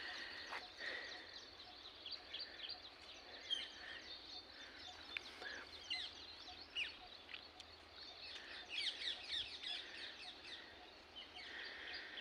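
A faint chorus of many small birds chirping, with short, quick, falling calls overlapping throughout and busiest around nine seconds in.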